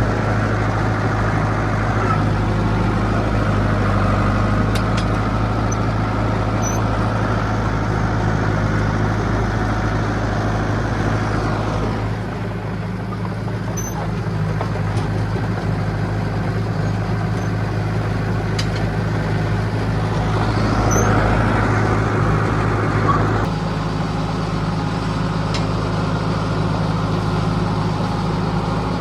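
John Deere 450B crawler bulldozer's engine running steadily as the dozer works. The engine note and loudness shift about twelve seconds in and again a little past two-thirds of the way.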